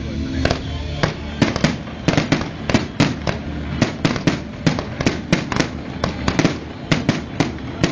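Fireworks going off: a rapid, irregular string of sharp bangs and crackling reports, several a second, over music.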